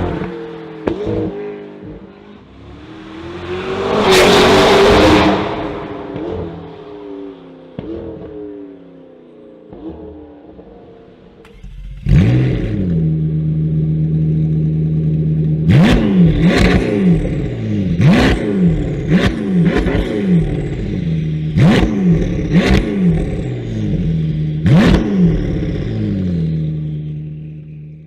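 McLaren GT's twin-turbo V8 through a Novitec sport exhaust: the car revving past, loudest about four seconds in, then idling and blipping the throttle in a dozen or so quick revs.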